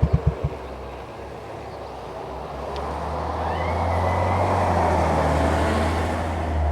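Yamaha SR400's single-cylinder exhaust thumps slow and stop within the first half second as the engine is shut off, then a passing vehicle's road noise with a steady low engine hum swells to a peak about five seconds in and fades.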